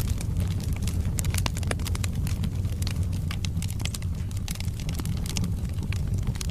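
Wood fire crackling: many sharp, irregular pops and snaps of burning logs over a steady low rumble of flames.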